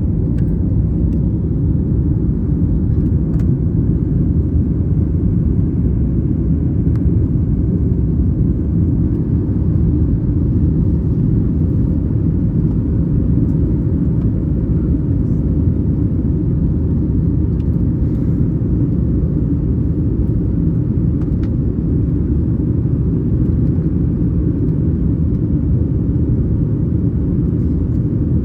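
Steady low rumble heard from inside the cabin of a Boeing 737 MAX 8 airliner, its engine and airframe noise holding an even level with no rise or fall.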